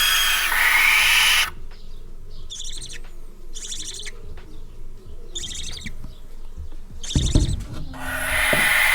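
Barn owls calling at the nest with harsh, hissing screeches: a long one at the start, four short ones in between, and another long one near the end. A low bump sounds about seven seconds in.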